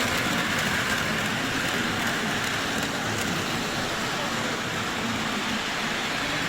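Lionel model trains running on the layout: a steady whir and hiss of motors and wheels on the track.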